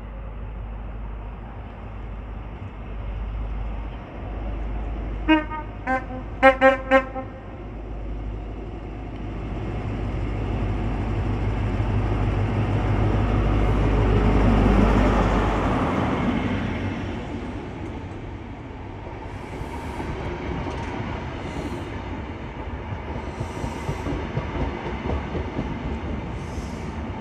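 Class 43 HST diesel power cars passing close by: five short horn toots in quick succession about five seconds in, then the leading power car's engine swells as it goes past and fades, followed by the coaches' wheels clicking over the rail joints.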